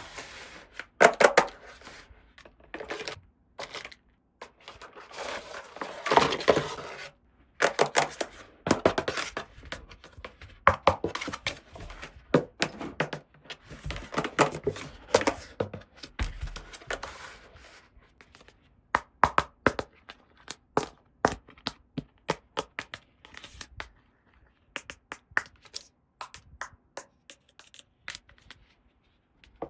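Hands unboxing plastic toys: packaging rustling and tearing in several stretches, and hard plastic pieces clicking and knocking.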